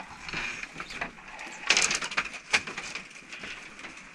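Irregular crunching and knocking footsteps and handling noises as someone moves about on dry ground, with a few sharper cracks about two seconds in.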